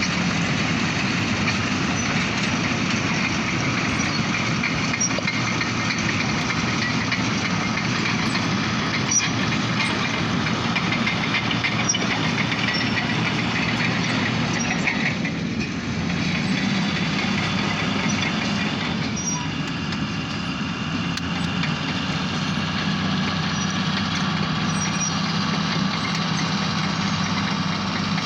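Diesel locomotive running light without cars, its engine running steadily, with a short dip in level about halfway through.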